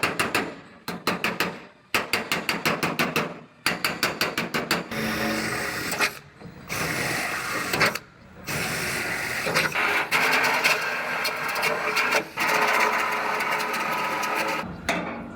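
Power tool working on the truck's sheet-metal bedside: first several bursts of rapid clicking, then about five seconds in a steady, continuous run that stops briefly a few times.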